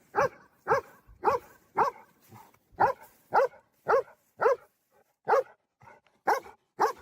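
A dog barking over and over, short sharp barks about two a second, with a short pause about five seconds in.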